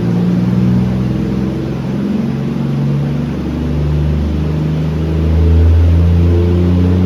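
Swapped Toyota 2JZ inline-six in a Corolla wagon running on a dyno. It is a steady low drone that shifts pitch in steps and swells in loudness about five and a half seconds in.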